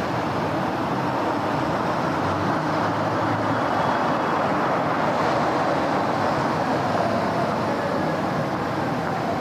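City road traffic: a steady wash of cars and other vehicles passing, swelling slightly in the middle.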